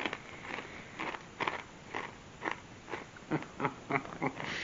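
Chewing a mouthful of crunchy peanut-butter-filled pretzel bites: a run of irregular crisp crunches, about two or three a second.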